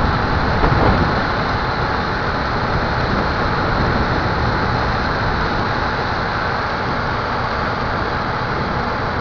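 Strong wind buffeting the microphone: a steady rushing roar with low rumble.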